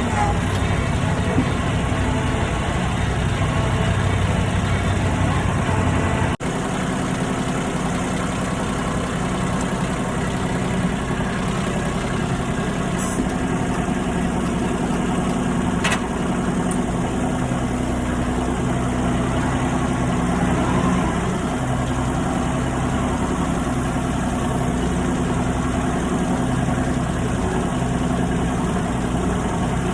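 Tractor engine idling steadily. About six seconds in the sound cuts out for an instant and resumes with a slightly different engine note.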